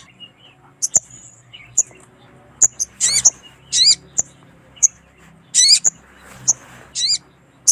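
Sogon (sogok ontong) bird calling: sharp, very high single chips about once a second, mixed with louder quick calls that zigzag down in pitch. This is the kind of call used as a lure to call wild sogon.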